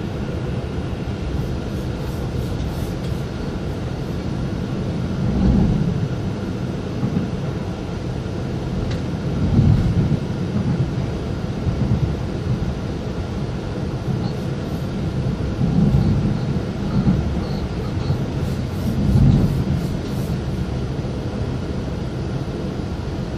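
Steady running rumble of a GYSEV Ventus passenger train at speed, heard from inside the carriage. Several heavier low rumbles swell up and fade every few seconds.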